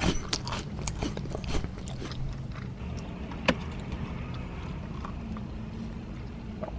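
Close-up chewing and wet mouth clicks from eating a soft glazed doughnut, busiest in the first two seconds with one sharp click midway, over a steady low hum.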